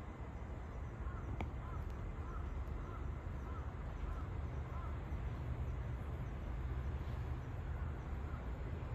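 A bird calling a run of short rising-and-falling notes, about two a second, for a few seconds, over a steady low rumble; a single sharp click about a second and a half in.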